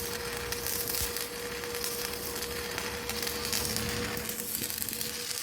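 Electric arc welding: a steady crackling sizzle, with a faint steady hum underneath.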